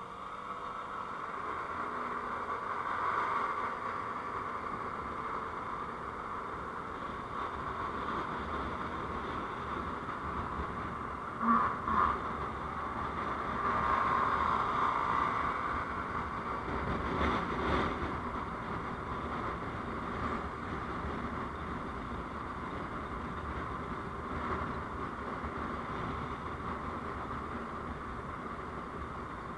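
Steady noise of a vehicle moving on the road, a haze of wind and running noise that comes in suddenly at the start. Two short, sharp louder knocks stand out a little before halfway.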